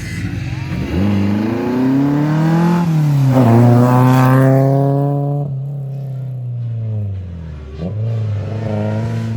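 Rally car engine accelerating hard: revs climb, drop at a gearshift about three seconds in, climb again, then the driver lifts off suddenly past the middle and the engine runs on lower before picking up again near the end.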